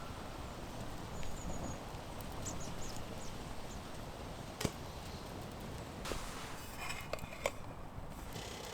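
A few sharp knocks or clicks over steady low background noise: the sharpest about halfway through and two more near the end, with faint short high chirps in the first few seconds.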